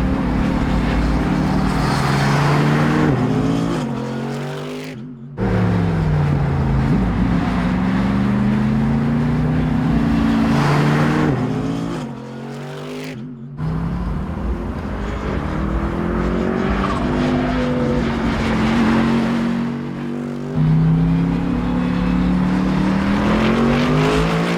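Mercedes-AMG GT Black Series twin-turbo V8, with its flat-plane crankshaft, being driven hard: the engine note climbs and drops again and again as it accelerates, shifts and backs off. The sound breaks off abruptly twice, at about five and thirteen seconds.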